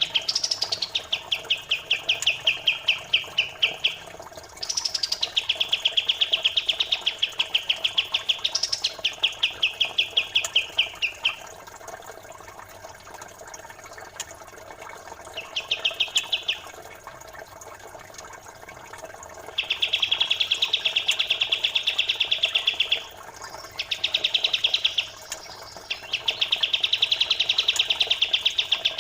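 Songbird chattering in fast trills: seven bouts of a few seconds each, every bout a rapid run of many notes a second. Some bouts open with a short high note that drops. A faint steady murmur of running water lies underneath.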